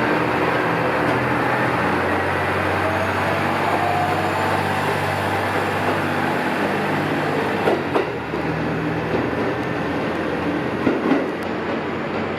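ET122 diesel railcar running past with a steady diesel engine drone. There are a few sharp wheel clacks on the rail joints about eight and eleven seconds in.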